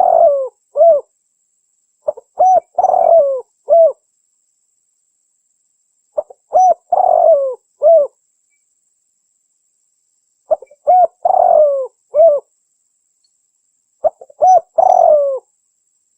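Spotted dove (tekukur) song, a recorded call played as a lure. One cooing phrase of a few short coos, a longer coo that falls away and a final short coo, repeated about every four seconds with clean silence between.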